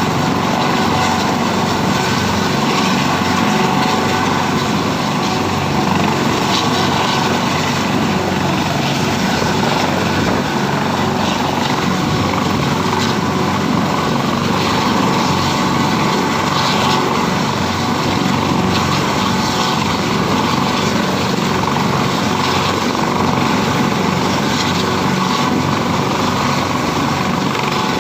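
Helicopter running steadily, a constant loud engine and rotor noise.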